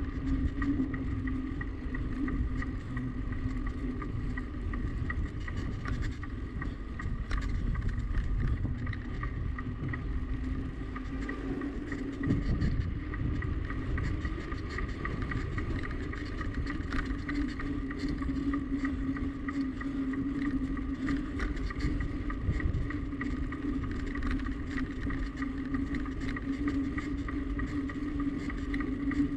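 Riding noise from a bicycle on the move: a steady hum, with wind rumbling on the microphone and scattered faint ticks.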